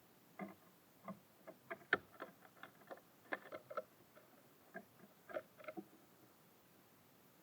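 Irregular taps and clicks of small birds pecking at seed on a bird feeder, some twenty short knocks over about five seconds.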